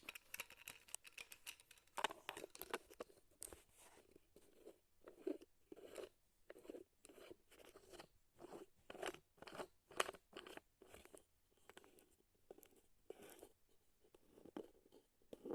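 Faint, irregular crunching and rustling handling noises, a few a second.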